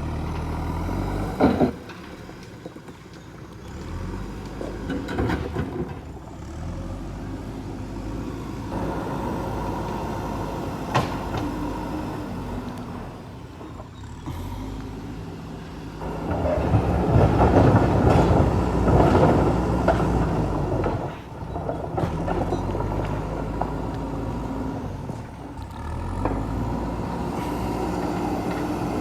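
JCB 3DX backhoe loader's diesel engine running and changing speed as it works, with sharp knocks about a second and a half in and again around eleven seconds. It gets louder and rougher for several seconds past the middle, then settles back.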